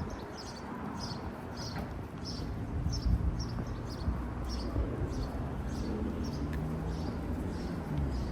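A short, high chirp repeated about twice a second, steadily, over an even outdoor rush of background noise.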